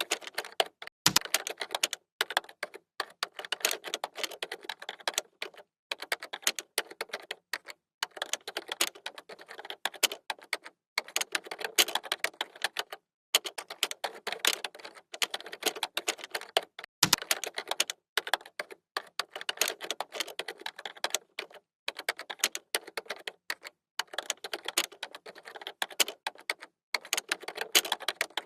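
Computer keyboard being typed on: fast runs of key clicks broken by short pauses every second or two.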